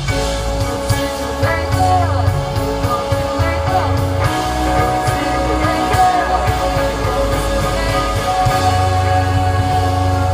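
Live band playing a rock song, with a sung voice over guitar and a steady, heavy bass.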